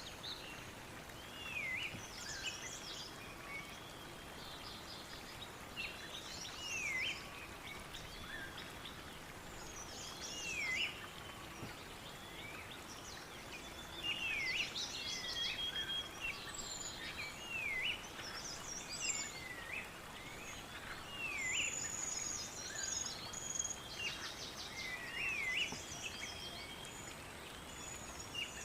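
Several birds singing and calling over a steady background hiss. One bird repeats a short swooping call that dips and rises again every few seconds, while others add quicker high chirps and trills.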